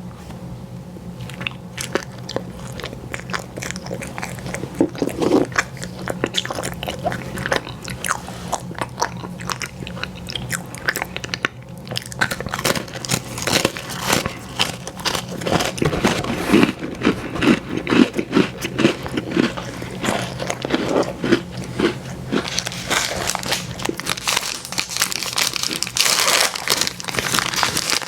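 Close-miked biting and chewing of an ice cream sandwich: irregular wet clicks and soft crunches, denser near the end, over a faint steady low hum.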